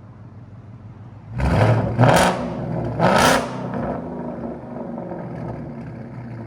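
2024 Ford Mustang GT's 5.0L Coyote V8 on straight pipes with a Roush H-pipe and the mufflers deleted. It idles, then about a second and a half in it is revved in three sharp blips, the last about three seconds in, and drops back to a steady idle.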